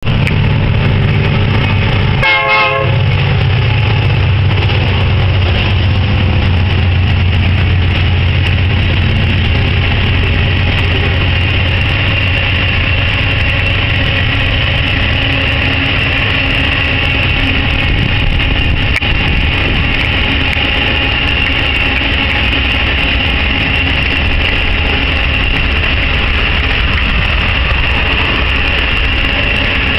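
Heavy iron-ore freight train passing: the diesel locomotives' engines give a deep drone for the first dozen seconds, then a long string of ore wagons rolls by with a steady rumble and a high, steady ring of wheels on the rails.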